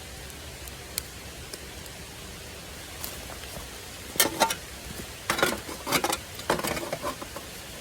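Steady rain falling, with an occasional single tick. From about four seconds in comes a run of loud, sharp clicks and scrapes close by.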